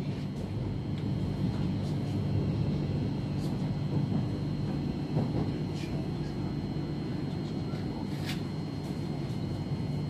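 Interior noise of a Thameslink Class 700 electric train carriage: a steady low hum with a thin, steady high whine above it and a few faint clicks.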